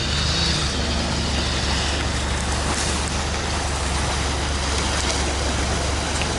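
Off-road vehicle driving, its engine and running gear making a steady low rumble with even noise over it.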